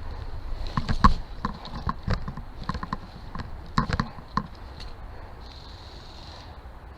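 A string of irregular knocks and clicks, thickest in the first four and a half seconds and sparser after, with a brief soft hiss about five and a half seconds in, over a low rumble.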